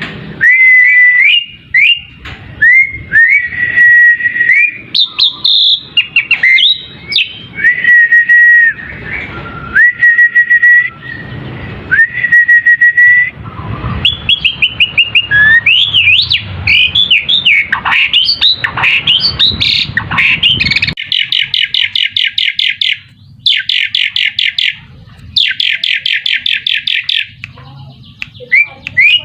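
Asian pied starling singing: repeated clear whistles held near one pitch and quick rising and falling glides, then fast rattling chatters in the last third.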